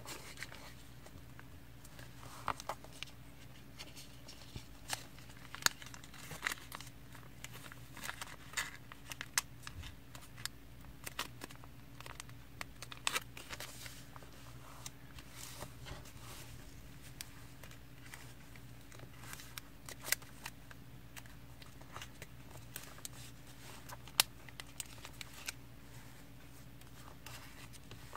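Sheet of paper being folded and creased by hand: scattered short crinkles, rustles and sharp crackles as the paper is bent, tucked into a pocket and pressed flat. A steady low hum runs underneath.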